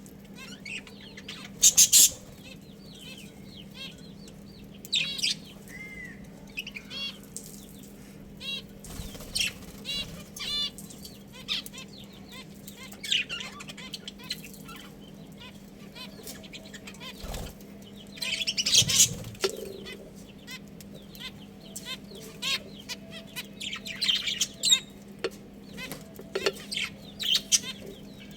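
Budgerigars chirping and chattering in many short, sharp, high calls that come in irregular bursts, over a steady low hum.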